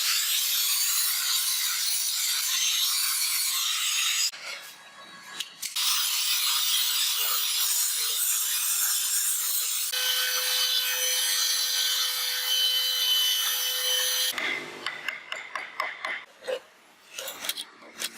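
An abrasive tool scraping wood in long continuous stretches, broken by a short pause about four seconds in. The scraping gives way to scattered knocks and handling sounds near the end.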